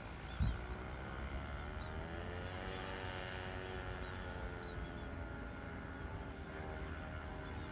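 An engine passing by, its hum slowly rising and then falling in pitch over a low rumble, with a short thump about half a second in. A few faint, short high chirps sound over it, likely the small bird.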